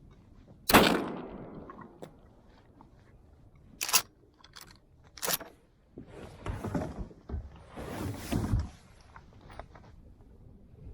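A single shotgun blast about a second in, with a short ringing tail, followed by a couple of sharper knocks and then some rougher handling noises.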